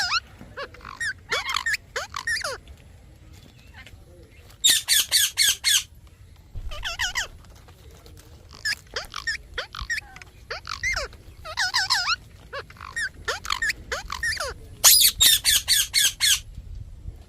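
Parrot calling: scattered chirps and squawks, with two fast runs of about eight sharp, shrill notes, one about five seconds in and one near the end.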